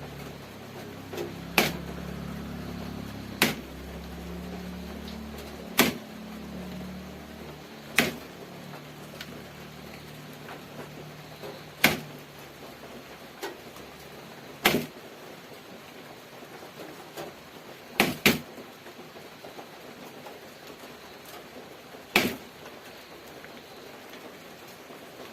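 Sharp, isolated clicks or taps every two to four seconds, two of them in quick succession about three quarters of the way through, over a faint low hum that fades out about halfway.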